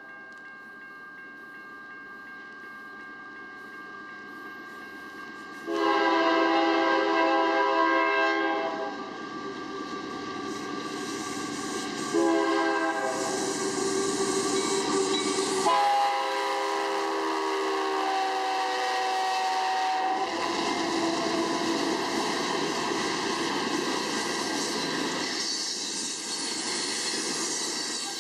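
Union Pacific freight train approaching and passing. The lead diesel locomotive's multi-chime air horn sounds several long blasts, the first about six seconds in. After the last blast, the locomotives and coal gondolas go by close with a steady rumble and clatter of wheels on rail.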